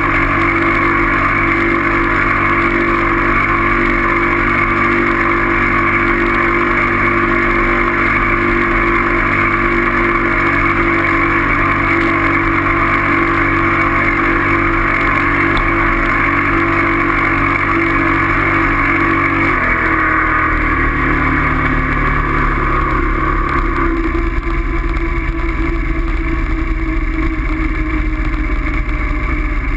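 A motor vehicle's engine running steadily while moving, with a constant rush of noise. Its note steps lower about 20 seconds in and again around 24 seconds.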